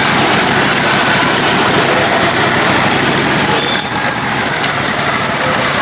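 Small engine of a lifted, modified riding mower running steadily.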